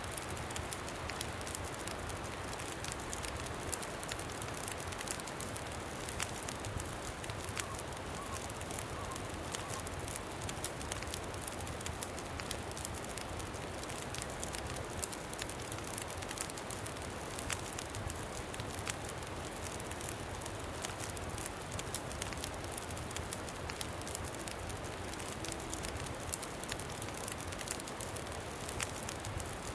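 Campfire crackling, with frequent small sharp pops, over a steady low rush of wind.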